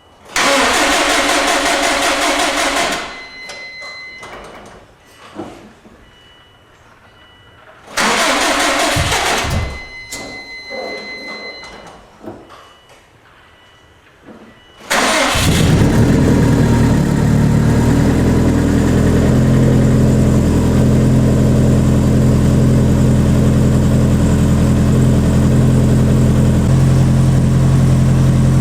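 Freshly rebuilt 2005 Subaru Impreza WRX STI turbocharged flat-four engine being cranked on the starter. The first two tries, each a few seconds long, don't catch. On the third, about fifteen seconds in, it fires and settles into a steady idle.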